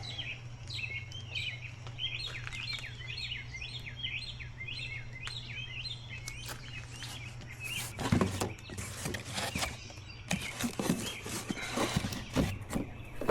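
Small birds chirping rapidly for about the first six seconds over a steady low hum. From about eight seconds in comes a run of rustles and clicks from a box of parts being opened.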